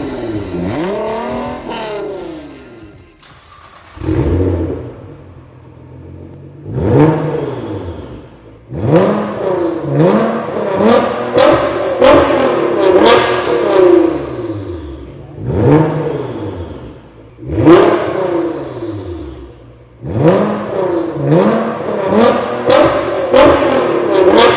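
Nissan GT-R R35's twin-turbo V6 revved over and over through an Armytrix titanium exhaust. Each blip rises sharply in pitch and then falls back, in quick repeated bursts after a brief lull a few seconds in.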